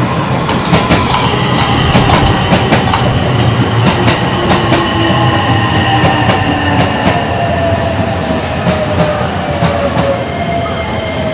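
Electric train passing nearby, its motor whine slowly falling in pitch as it slows, with clicking from the wheels.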